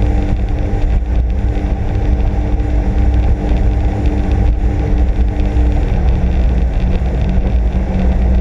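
Sea-Doo RXP-X 260 personal watercraft's engine running steadily under way. About six seconds in its note drops lower as the throttle eases off.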